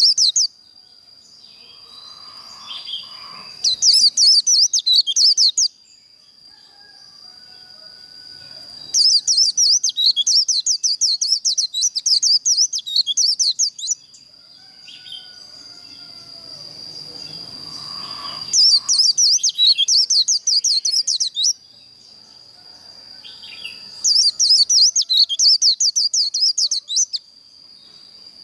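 White-eye (vành khuyên) singing its rapid chattering 'líu' song in loud bursts of two to five seconds, four times, with softer chirps in between.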